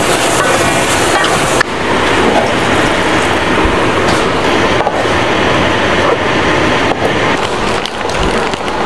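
Chilli balado sauce with eggplant sizzling and bubbling in a hot aluminium wok, stirred and scraped with a wooden spatula. A steady, loud hiss.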